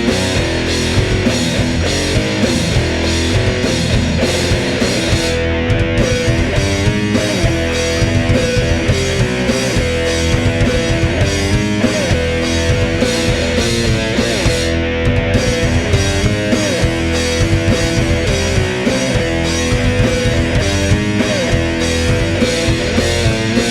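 Heavy doom metal band playing an instrumental passage: distorted electric guitars, bass and drums, with cymbal strokes about twice a second and a guitar line bending up and down in pitch.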